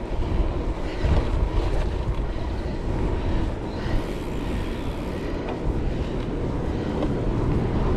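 Steady wind rumble on an action camera's microphone while cycling along a road, mixed with the hum of the bike's tyres.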